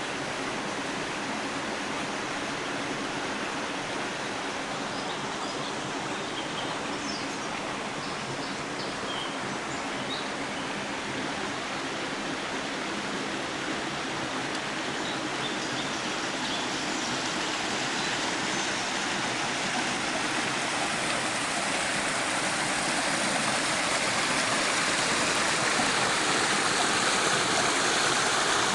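Flowing stream rushing steadily, growing louder over the last third, with faint short high chirps in the first half.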